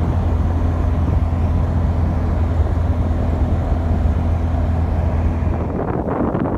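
Car engine running, heard as a steady low drone. Near the end the drone falls away into gusty noise.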